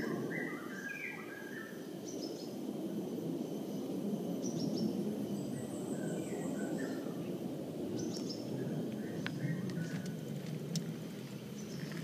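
Several birds calling with short chirps and whistles, scattered throughout, over a steady low background rush.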